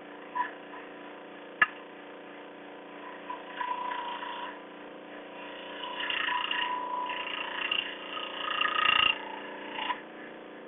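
Wood being worked by hand with a tool: a sharp knock about one and a half seconds in, then irregular bursts of scraping and rubbing as a side of the piece is flattened, over a steady low hum.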